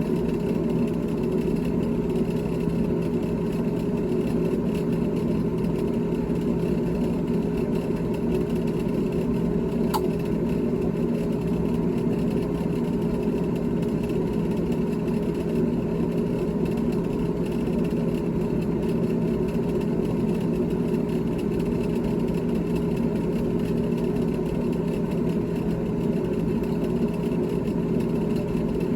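GE GTH18XCTZRBB top-freezer refrigerator running with a steady hum made of several constant tones. There is a single faint click about ten seconds in.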